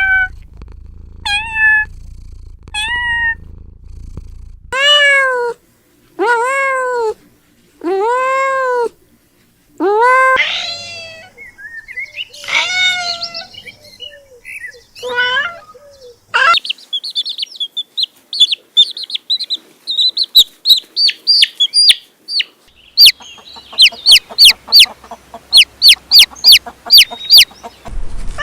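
Cats and kittens meowing, a series of separate calls: a few short falling meows, then three long arched meows, more meows, and from about halfway on a rapid run of short, high-pitched squeaking cries.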